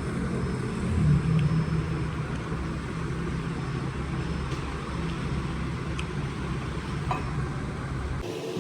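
A motor vehicle's engine running steadily with a low rumble, briefly louder about a second in, with a few light clicks; the sound cuts off abruptly near the end.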